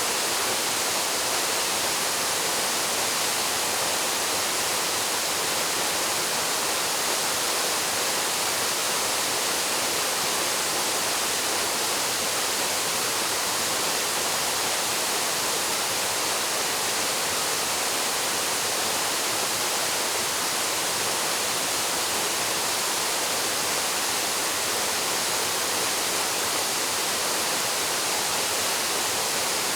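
Waterfall pouring steadily into its plunge pool: a constant, even rush of falling water with no changes.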